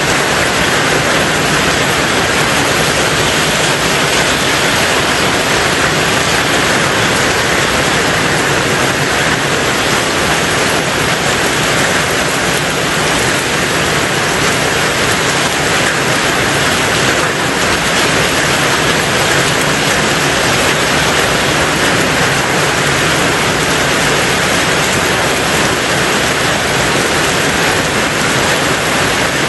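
Rain falling on a tin roof, a dense steady hiss with no let-up.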